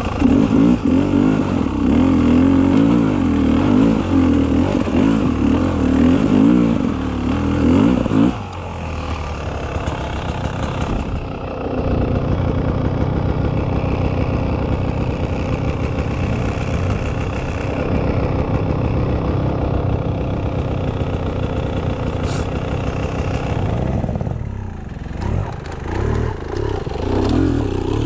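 Beta 300 RR two-stroke single-cylinder enduro motorcycle engine under load, revving hard for about the first eight seconds, then running steadier and lower. Near the end the throttle briefly drops off, then the engine picks up again.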